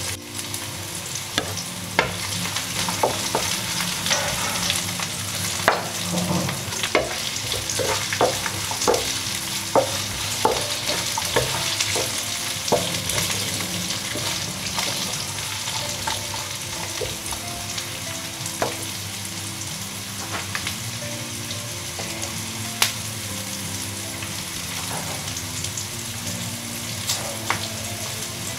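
Chopped capsicum and onion frying in hot oil in a wok, with a steady sizzle and repeated sharp clicks and taps from stirring, thickest in the first ten seconds and sparser after.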